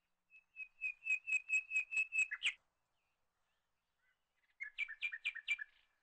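Bird chirping: a quick run of about nine short high notes, then, after a pause of about two seconds, a shorter run of five.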